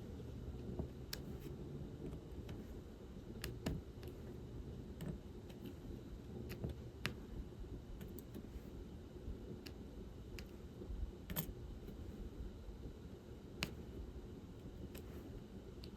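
Light, irregular clicks and taps of diamond painting work: a drill pen picking up small resin drills and pressing them onto the sticky canvas, over a low steady room hum.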